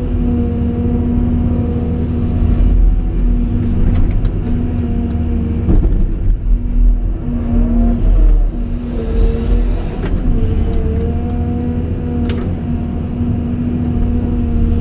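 Caterpillar 349E excavator's diesel engine and hydraulic pump running at a steady speed, with a droning whine that dips and bends in pitch for a moment about halfway through as the hydraulics take a load. A few sharp clicks and knocks sound over it.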